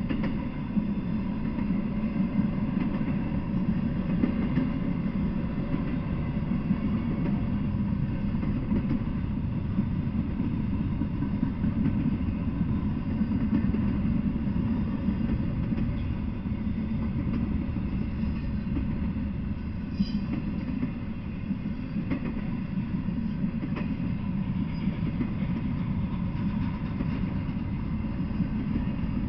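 Intermodal freight train rolling past, its flatcars and double-stack well cars making a steady, deep rumble of wheels on rails.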